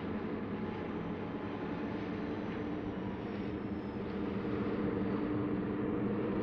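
Diesel train engine running steadily with a low drone, getting a little louder from about four seconds in.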